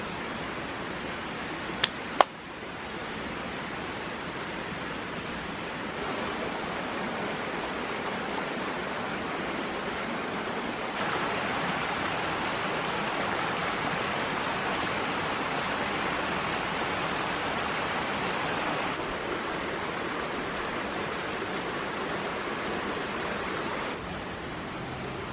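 Steady rushing of flowing water from a stream, its level stepping up and down a few times, with two sharp clicks about two seconds in.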